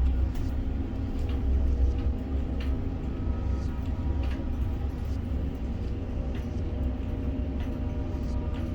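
Container crane machinery running with a steady low rumble and hum, heard from inside the operator's cab, with faint clicks now and then.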